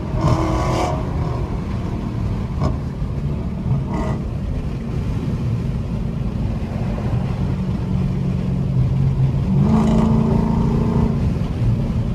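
Straight-piped Dodge Charger Scat Pack's 392 HEMI V8 running hard at freeway speed: a loud, steady low exhaust drone that gets louder about nine seconds in.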